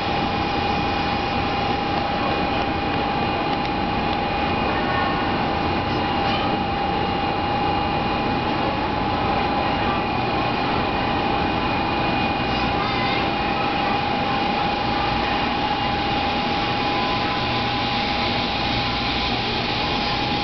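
Steady railway-platform ambience around a stationary Shinkansen: an even rumble and hiss with a constant mid-pitched hum that does not change in pitch.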